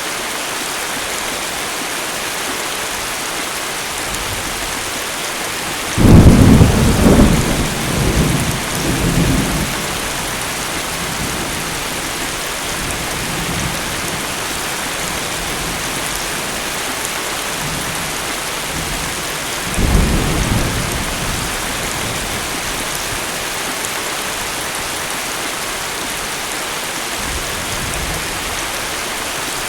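Heavy tropical rain falling steadily, with a sharp crack of thunder about six seconds in that rolls on for several seconds, and a second, weaker thunderclap near the twenty-second mark.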